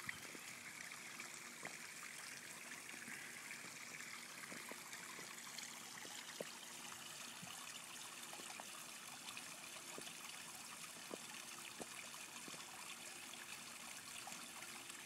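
Small backyard garden waterfall spilling into a pond: a faint, steady trickle of water with scattered small splashes.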